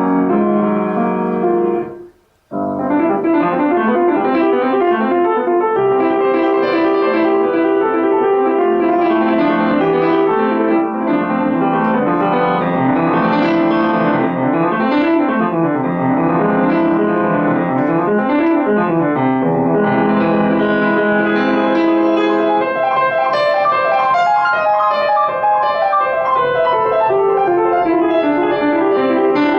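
Solo acoustic piano playing a classical piece in fast, running passages of notes that climb and fall, with a brief silent pause about two seconds in before the playing resumes.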